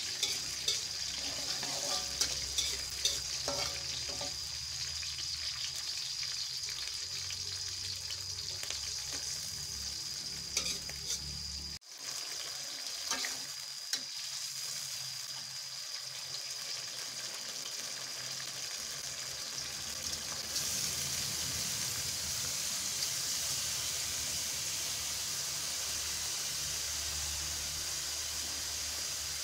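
Shallots, garlic and chili sizzling in hot oil in a wok, stirred with a metal spatula that clicks and scrapes against the pan, most in the first few seconds. The frying sizzle is steady throughout, dropping out for an instant about twelve seconds in.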